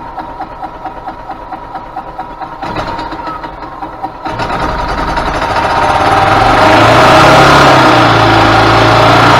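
Rebuilt Yamaha G16A golf cart's single-cylinder four-stroke engine on its first run: it runs slowly with an even pulsing, then about four seconds in it speeds up, getting louder over a couple of seconds and holding at a higher speed. It sounds pretty good, with no racket.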